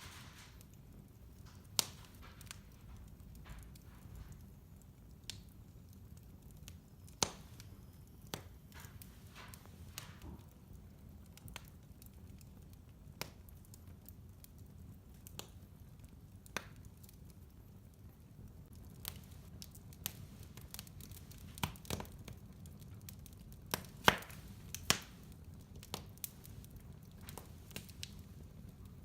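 Wood fire in a fireplace crackling: scattered sharp pops and snaps at irregular intervals over a low, steady rumble of the burning fire, with a cluster of louder pops a little past the middle.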